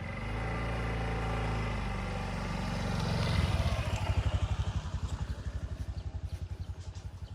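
A small engine starts abruptly and runs with a steady low hum, then after about three seconds settles into an even, slow chugging that gradually fades.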